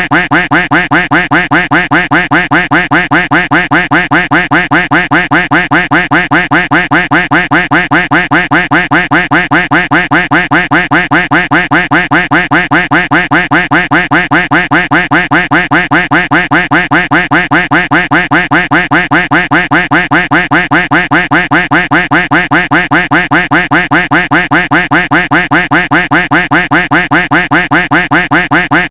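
Duck quack sound effect looped without pause: the same nasal quack repeated rapidly and evenly, several times a second.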